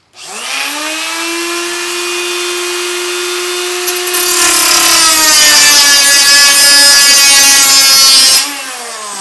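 3-inch cutoff tool spinning up with a rising whine to a steady pitch. About four seconds in, the wheel bites into 40-thousandths sheet metal, adding a loud harsh hiss, and the pitch sags slightly under load. Near the end the cut stops and the whine winds down.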